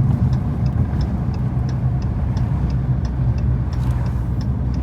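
Dodge Challenger V8 engine cruising at a steady drone, with a light regular ticking about three times a second over it.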